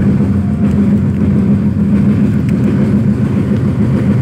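Steady running noise of a moving Indian passenger train heard from inside the coach: wheels on the rails with a low, even hum, no change in speed.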